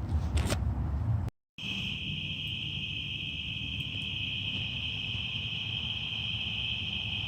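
Crickets trilling in a steady, unbroken high chorus. Before it, about a second of low rustling ends in a brief dropout.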